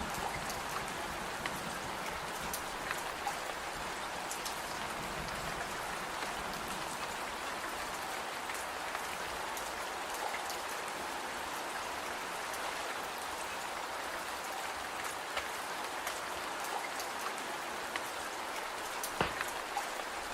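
Steady rain falling, an even hiss, with scattered sharp clicks through it.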